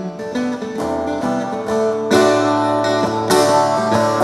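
Acoustic guitar strumming chords in an instrumental passage, with a new chord struck about every second and a quarter and left to ring.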